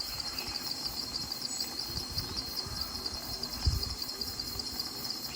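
Crickets chirping in a steady, rapid pulsing trill, with a few low thumps, the loudest about three and a half seconds in.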